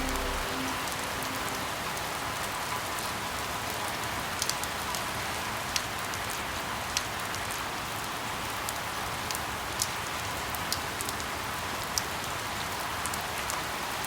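Steady rain falling, with scattered sharp drips standing out as single clicks every second or two.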